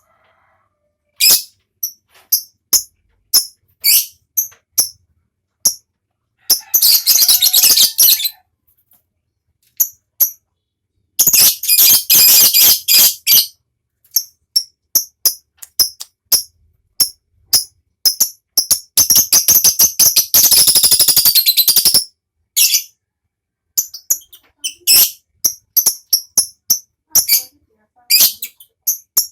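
Lovebird calling in sharp, high single chirps, broken three times by long, rapid rattling trills: the 'ngekek' chatter. The longest trill lasts about three seconds, about two-thirds of the way through.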